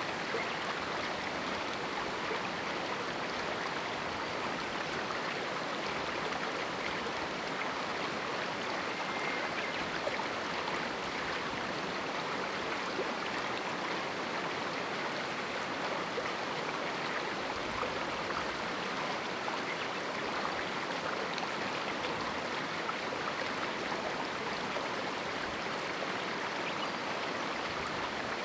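A shallow mountain stream running steadily over rocks: an even rush of water with many small splashes and gurgles, without let-up.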